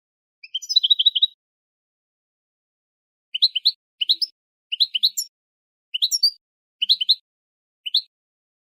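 Goldfinch × linnet hybrid singing. A quick twittering phrase comes about half a second in, then after a pause a run of short, high, rising chirps in twos and threes, about one group a second.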